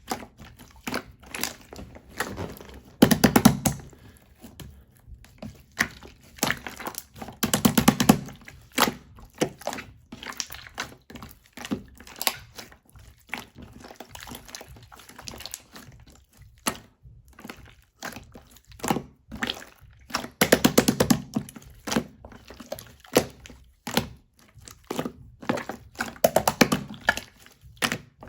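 Slime being pressed and squeezed by hand, giving many sharp clicks and pops of trapped air. Four times, about three, eight, twenty-one and twenty-seven seconds in, it swells into a louder, denser run of crackling pops.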